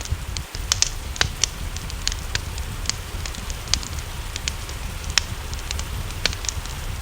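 Wood fire crackling in a fireplace, with irregular sharp pops and snaps over a steady low rumble, mixed with an even hiss of rain.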